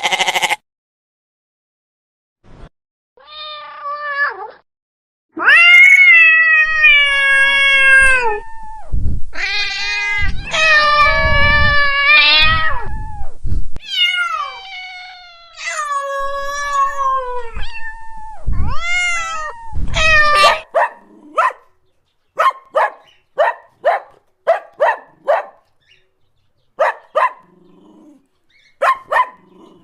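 A cat meowing in several long, drawn-out yowls, each a couple of seconds long with the pitch bending down at the end. About two-thirds of the way in, these give way to a quick run of about a dozen short calls.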